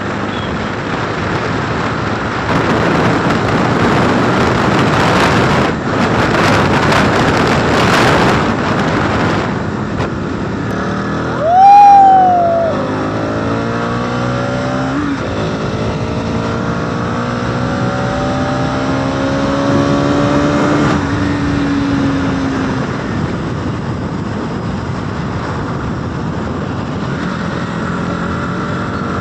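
Motorcycle engine running at speed on the open road, with heavy rushing wind noise over the first several seconds. A loud horn blast about twelve seconds in briefly rises and falls in pitch. After it the engine pitch climbs again and again as the bike accelerates through the gears.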